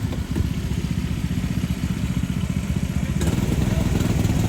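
Yamaha Raptor 700R quad's single-cylinder four-stroke engine idling with a rapid, even pulse. It gets a little louder about three seconds in.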